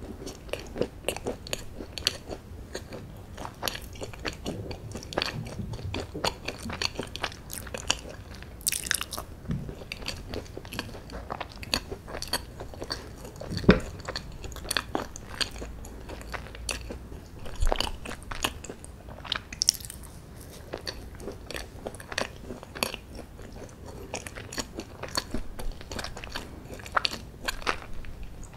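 Person chewing fudgy chocolate brownie: a dense run of short mouth clicks and smacks, with one louder low knock about halfway through.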